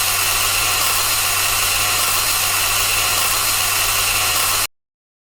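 A steady noisy hum with a low drone underneath, like a running machine, cutting off abruptly about four and a half seconds in.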